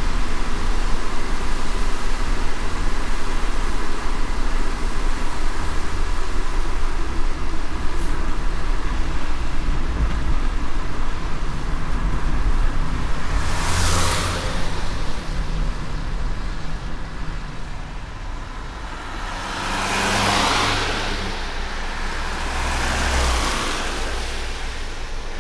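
Car driving in light rain, heard from inside: a steady low road and engine rumble under a hiss of tyres on the wet road. Three whooshes of passing vehicles swell and fade, one a little past halfway and two close together near the end.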